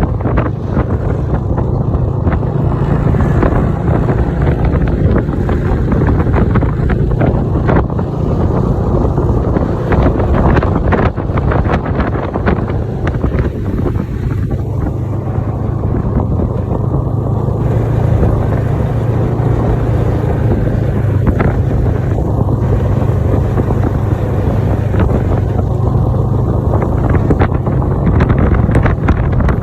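Snowmobile engine running steadily under way, with wind rushing on the microphone.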